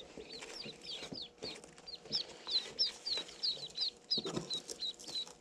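Day-old ducklings peeping inside a cardboard shipping box, a rapid, continuous run of short, high chirps. A few knocks and rustles come from the box being handled, the loudest about four seconds in.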